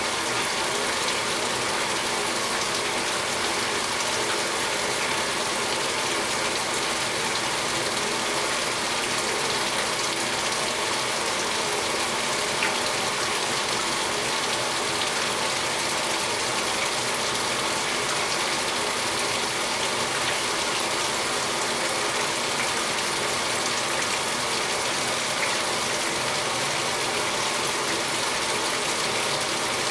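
Speed Queen top-load washing machine filling its tub with water: a steady rushing hiss with a faint mechanical rattle in it.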